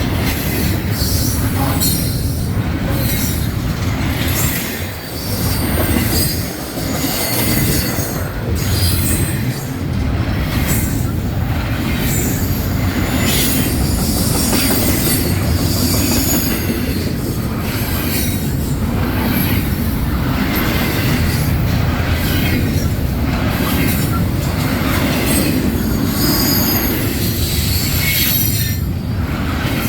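Freight train rolling past, its steel wheels squealing against the rails in high, shrill tones that come and go over the steady rumble and clatter of the cars.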